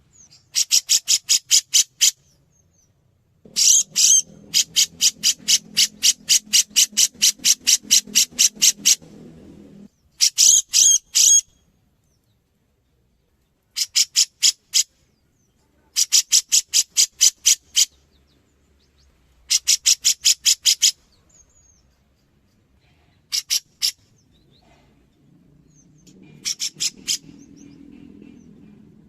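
Cucak jenggot (grey-cheeked bulbul) calling in bursts of sharp, rapidly repeated high notes, about four a second, each run lasting one to five seconds with short pauses between.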